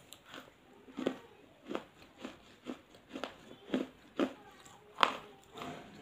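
Crunching and chewing pieces of baked clay pot in the mouth: short crisp crunches about two a second, the loudest about five seconds in.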